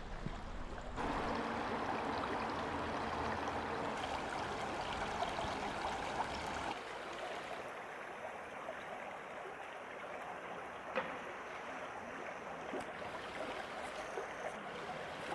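River water flowing in a steady rush, stepping up in level about a second in and dropping back around the middle, with one sharp click near the end of that stretch.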